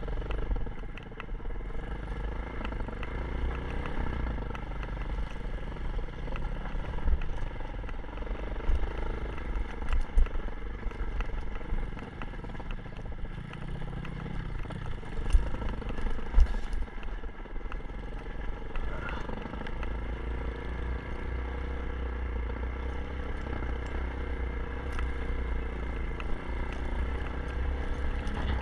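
Kawasaki KLX 150 dirt bike's single-cylinder four-stroke engine running as it is ridden, its pitch rising and falling with the throttle. A couple of sharp knocks come about halfway through.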